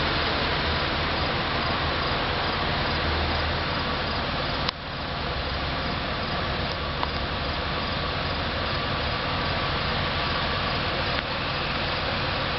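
2009 Chevy Impala idling steadily with a low hum and a hiss. There is a sharp click a little under five seconds in and a fainter one near the end.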